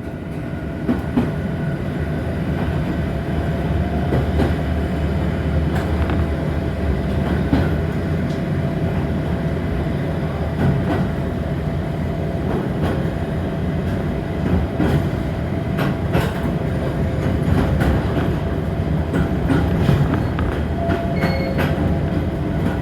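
A Toyama Chiho Railway electric train running on the main line, heard from inside the car: a steady low rumble with scattered clicks of the wheels over the rail joints.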